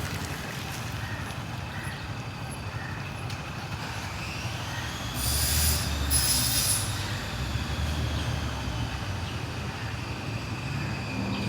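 Busy road traffic with vehicle engines running and passing. About five and six seconds in come two short, loud, high-pitched hissing bursts over a heavier low rumble.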